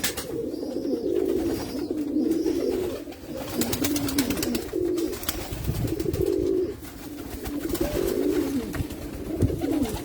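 Several domestic fancy pigeons cooing, their low coos overlapping one after another without a break, with short clicks scattered through.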